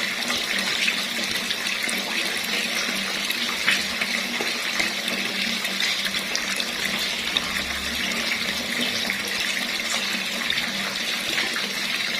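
Water running steadily from a tap, a constant splashing rush.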